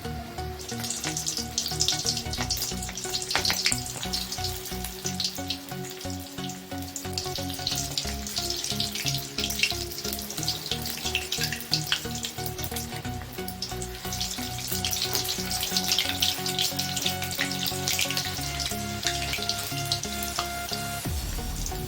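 Cornflour-and-egg coated chicken pieces frying in hot oil, a continuous sizzle and crackle that swells and eases.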